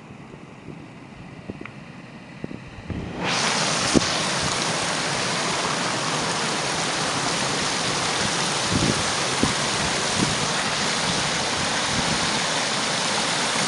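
Rushing stream water, a steady loud hiss that comes in suddenly about three seconds in, with a few soft knocks.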